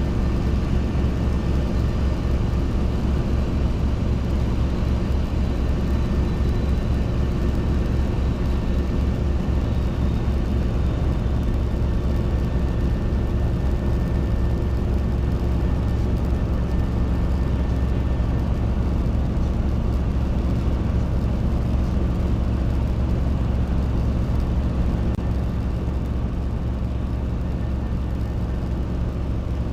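Robinson R22 helicopter in cruise flight, heard from the cabin: a steady engine and rotor drone with a fast low beat, easing slightly near the end.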